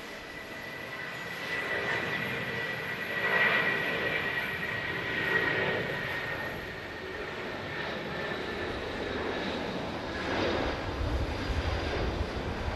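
Jet airliner engines passing, a high whine that slowly drops a little in pitch over a rushing noise. It grows louder over the first few seconds, and a deeper low rumble builds near the end.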